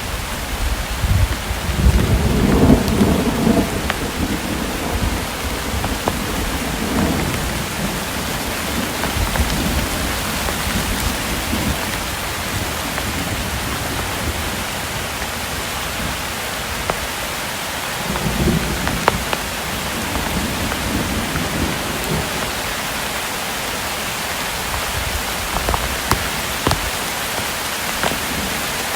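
Thunderstorm: steady rain falling, with thunder rumbling low near the start and again about two-thirds of the way in, and scattered sharp drip ticks.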